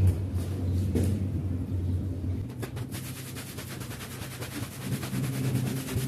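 Carpet-cleaning machine running: a steady low motor hum, joined about three seconds in by a fast, even ticking.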